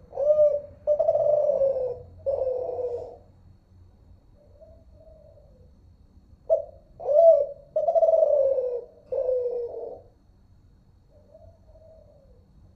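Spotted dove of the Kelantan song type cooing: two song phrases, each a couple of short notes followed by longer, falling coos, with a soft quiet coo after each phrase.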